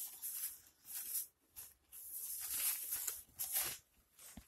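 Close-miked chewing of a mouthful of pulled pork sandwich, in irregular bursts with short pauses between.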